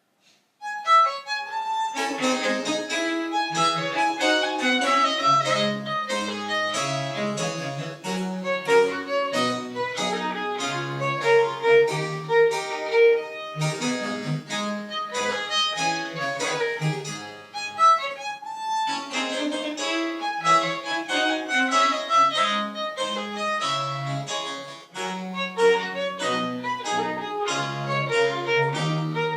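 French Baroque chamber music played live: a violin melody over harpsichord accompaniment, starting about a second in after silence.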